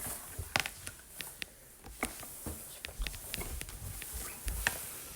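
Quiet room with a scattering of faint, irregular clicks and light taps, and a few low bumps.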